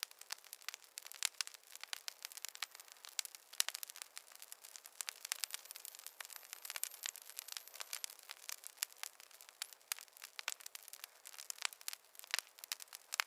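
Fireplace wood fire crackling: a dense, irregular stream of sharp pops and snaps over a light hiss, with no low rumble.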